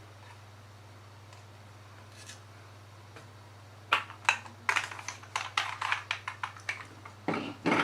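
Handling noise from a sticky, dirty plastic hair dryer: after a few quiet seconds, a run of irregular plastic clicks and short rubbing scrapes, with a longer, louder scrape near the end.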